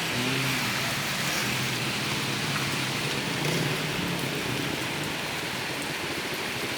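Heavy rain falling in a steady downpour, an even hiss of rain hitting surfaces.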